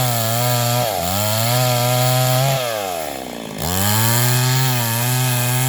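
A small engine running hard; its pitch sags briefly about a second in, then drops more deeply about three seconds in before picking back up, as if it is being loaded.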